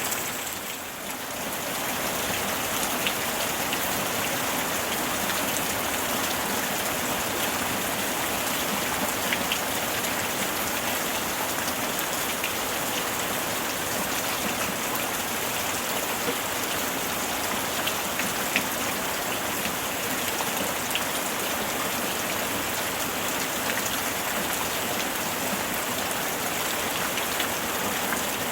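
Steady summer rain falling, an even hiss with scattered louder drop ticks. The level dips briefly about a second in.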